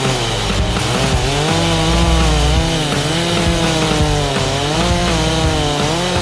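Two-stroke chainsaw running and cutting, its engine pitch rising and falling as it works through the wood, with background rock music underneath.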